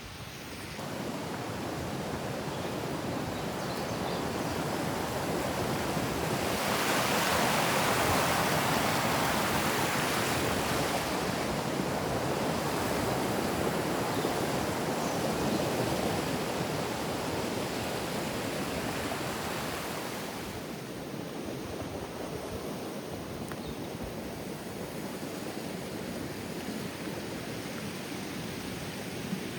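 River rushing with a steady, even sound that swells about seven seconds in and eases back after about twenty seconds.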